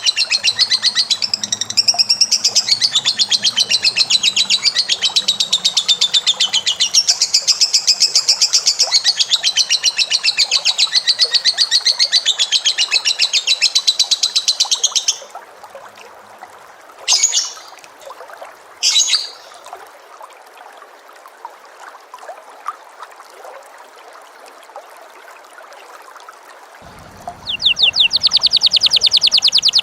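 Cage bird giving a long, very rapid, evenly pulsed chattering trill that stops sharply about halfway through. Two short calls follow a few seconds apart, and the rapid trill starts again near the end.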